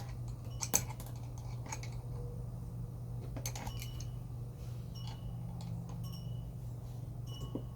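Hand tools clicking and clinking against generator engine metal as bolts are worked loose: scattered short clicks, a few with a brief metallic ring, the sharpest about a second in, over a steady low hum.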